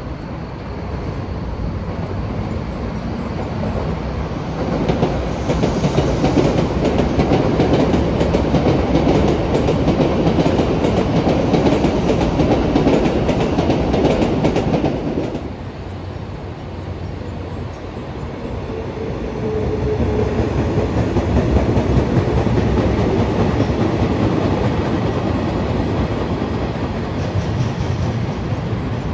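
Train running on the rails; the noise swells about five seconds in, drops off abruptly about halfway, then swells again with a brief faint whine.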